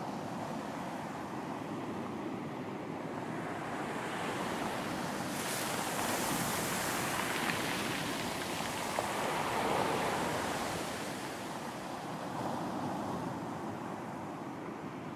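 Sea waves breaking on a beach: a steady wash of surf that swells about five seconds in as a wave breaks and rushes up with a hissing spray, then slowly ebbs away.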